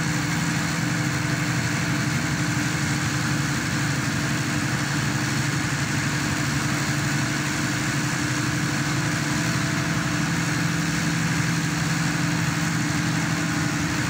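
Engine of a hydraulic static pile driver running at a steady, even speed, a constant drone with no change in pitch or level.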